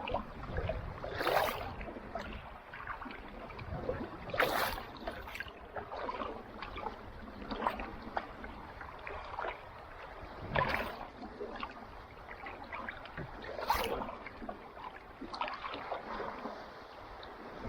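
Kayak paddle dipping into calm sea water, a splashing stroke about every three seconds, with water trickling off the blade and lapping against the hull in between.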